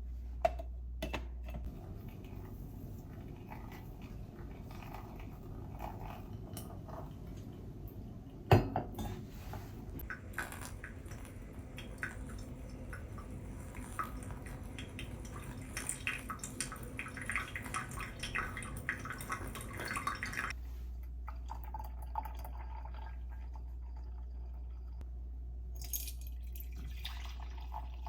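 Kitchen sounds of water pouring and dripping, with cups and dishes clinking and one sharp knock about eight seconds in.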